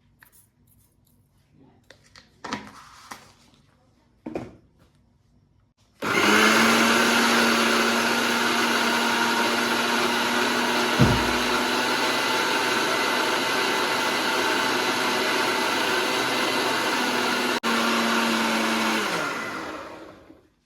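Electric kitchen blender, preceded by a few light knocks, then switched on and running steadily with a loud motor whine. It cuts out for an instant near the end, then spins down to a stop.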